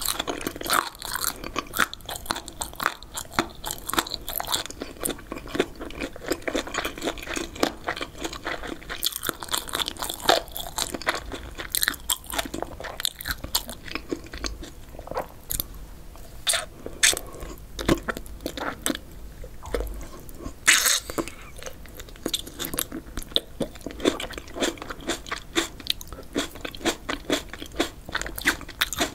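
Close-miked chewing of spicy Korean chicken feet and pork skin: crunchy and chewy mouth sounds, a dense run of irregular crackles and clicks. Partway through comes a bite into a fresh tomato.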